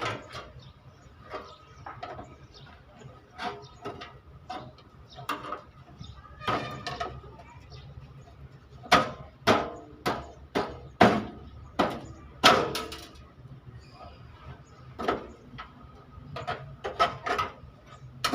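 Irregular hammer blows on the sheet metal of a dented vehicle footstep being beaten back into shape. The strikes are loudest in a quick run near the middle, over a steady low hum.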